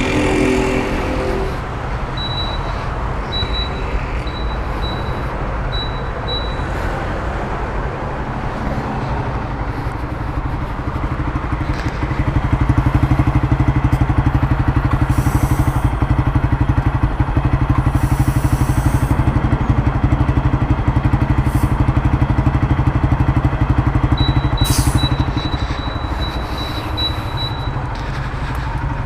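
Honda CG Titan 150's single-cylinder four-stroke engine running through a Turuna aftermarket exhaust on the move, getting louder about twelve seconds in and easing back near the end. A run of short high beeps sounds twice, once early and once near the end.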